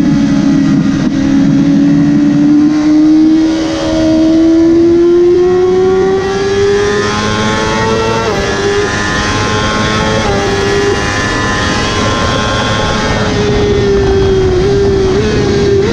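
Motorcycle engine running hard at high revs, its pitch climbing slowly over several seconds with a few brief dips, over a steady rush of wind.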